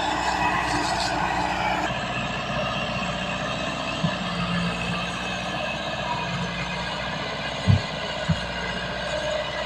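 Tractor engine running steadily, its tone shifting slightly about two seconds in, with two short low thumps near the end.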